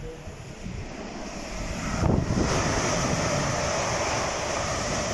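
A fast train passing straight through at speed without stopping, a loud rush of wheel and air noise that builds over the first two seconds and then holds steady.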